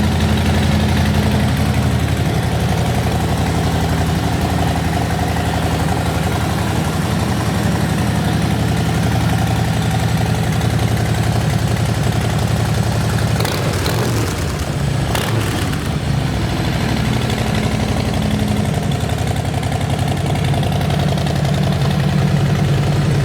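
2021 Harley-Davidson Softail Standard's Milwaukee-Eight 107 V-twin idling steadily through Vance & Hines Short Shot pipes. A couple of brief knocks and a slight dip in the idle come a little past halfway.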